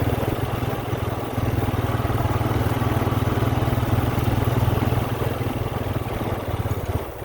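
An engine running steadily with a low, pulsing hum, dipping briefly about a second in and easing down near the end.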